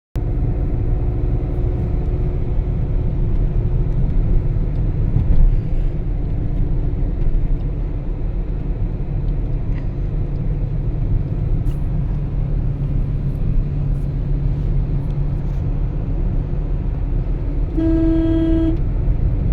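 Steady low rumble of a car driving at highway speed, road and engine noise. Near the end a vehicle horn sounds once for about a second.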